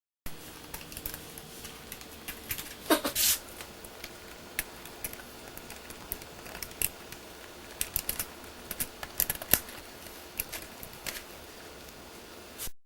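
Scattered small clicks and taps of screws and plastic laptop parts being handled during disassembly, with one louder scrape about three seconds in.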